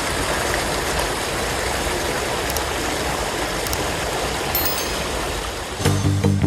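River water flowing over rocks: a steady rush. Near the end, music with plucked guitar and bass starts.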